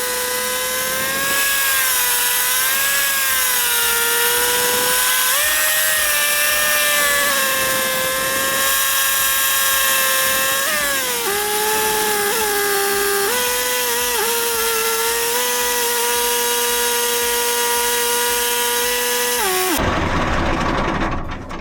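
John Deere tractor being driven, its drivetrain giving a steady high whine that wavers with road speed. The pitch drops and steps up again about halfway through, and it falls away just before the end.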